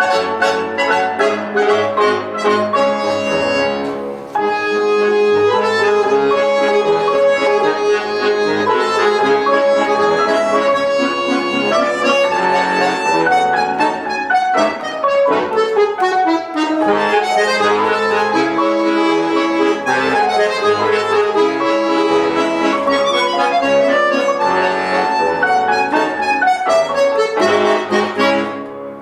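Accordion playing a waltz melody with piano accompaniment, a falling run of notes about halfway through.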